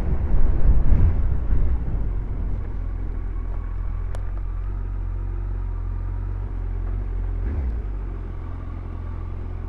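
Motorcycle slowing to a stop, the wind and road noise dying away over the first couple of seconds, then its engine idling steadily.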